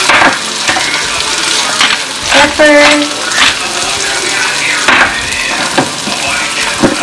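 Tofu cubes, sliced onion and garlic sizzling in oil in a nonstick wok, a steady frying hiss with a few short clicks or knocks through it.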